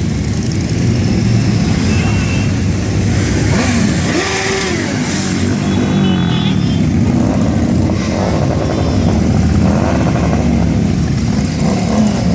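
Several motorcycle engines running, their pitch rising and falling as they rev and pass.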